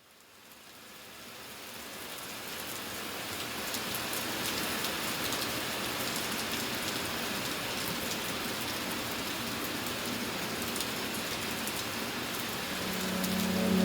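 Steady rain falling, with scattered individual drops pattering, fading in over the first few seconds. A low held musical tone comes in near the end.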